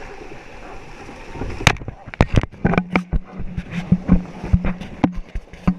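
Canoe paddling: a run of sharp, irregular knocks and clatter, such as paddles striking the canoe's hull, starting about a second and a half in. From about halfway a steady low hum runs beneath them.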